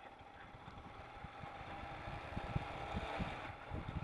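Royal Enfield Himalayan motorcycle engine running as the bike moves off, with wind gusting on the microphone and growing louder after about two seconds.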